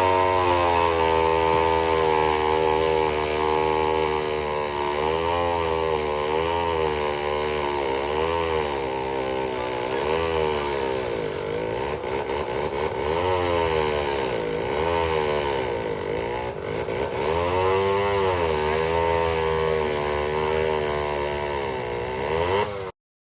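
Vintage two-stroke chainsaw engine running. It holds steady for the first few seconds, then its speed dips and recovers again and again.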